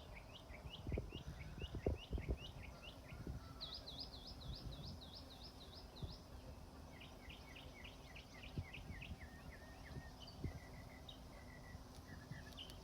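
Songbirds singing faintly in the background, with several runs of quick, repeated high chirping notes. A few low thumps sound about one to two seconds in.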